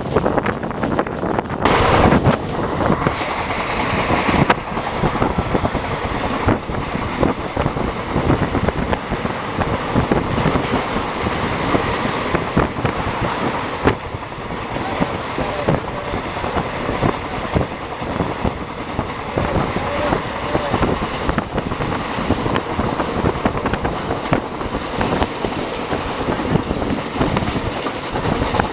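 Express train coach running at speed, heard from on board: wheels clattering over the rails with a steady rush of running noise, and a brief louder burst about two seconds in.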